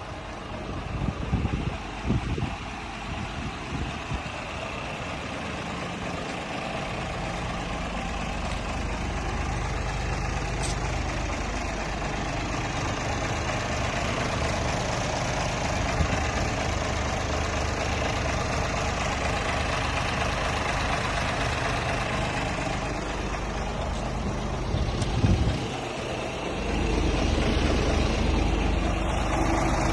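Scania R450 truck's diesel engine idling steadily, with a few knocks in the first seconds and another about 25 seconds in; after that the idle is louder and deeper.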